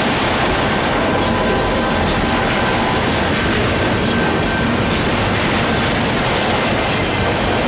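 Union Pacific train's cars rolling steadily through a grade crossing: a loud, continuous rumble of steel wheels on the rails with no let-up.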